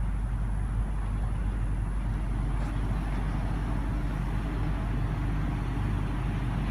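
Steady outdoor background rumble of road traffic, low and even throughout.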